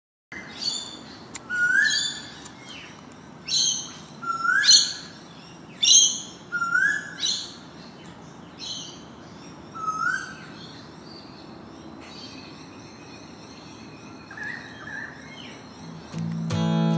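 Birds calling, a loud series of short calls every second or two with quieter calls between, over a faint steady outdoor background. Guitar music comes in near the end.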